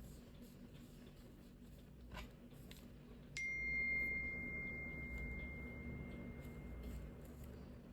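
Soft rustles of paper being handled, then a little over three seconds in a single struck ding: one clear, high ringing tone that fades away over about three and a half seconds.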